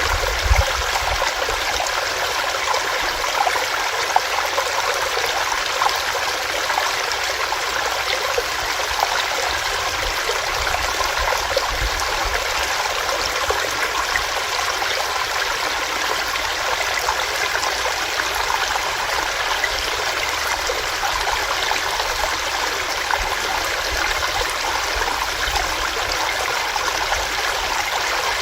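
Small rocky stream running steadily over rocks, a continuous splashing and gurgling rush.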